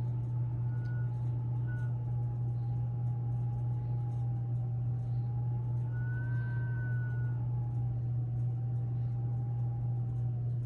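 Blizzard wind whistling in a long, slowly wavering tone, with a few brief higher whistles, one longer one past the middle, over a steady low hum.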